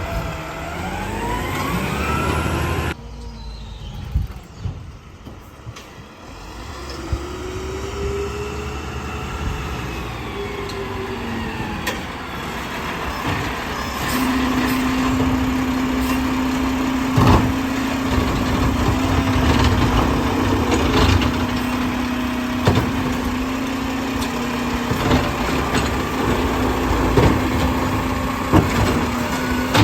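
Garbage truck running its packer: the engine revs and the hydraulics work, with scattered clanks and knocks. About halfway through a steady hum sets in and holds.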